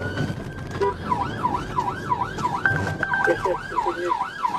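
Police car siren sounding from the pursuing car: a slow rising wail that switches about a second in to a fast yelp, sweeping up and down about three times a second.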